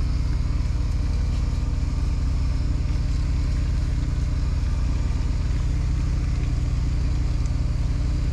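An engine running steadily at an even idle, a constant low drone that does not rev or change.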